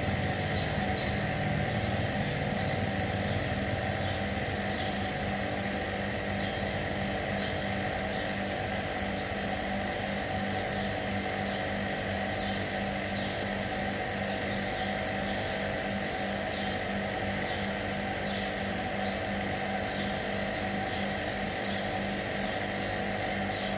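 A motor running steadily with an even hum, with faint irregular ticks over it.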